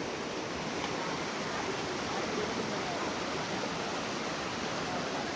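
Steady rushing of water from a stream or waterfall: an even, unbroken roar of running water.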